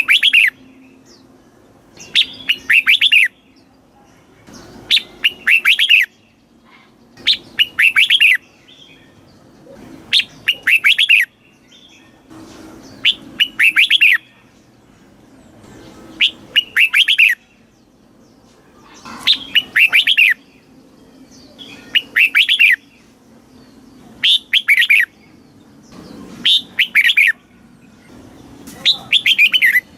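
Red-whiskered bulbul singing: short phrases of quick, bright notes, repeated about every two seconds.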